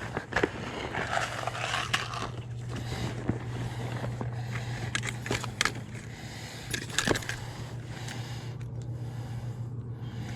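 Close handling noise while a caught bass is weighed on a hand scale: scattered clicks, knocks and scrapes over a steady low hum.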